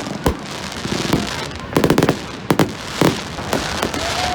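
Fireworks going off: a run of sharp bangs and crackling pops over a steady crackle, with a quick volley of pops about two seconds in. A short whistling tone sounds near the end.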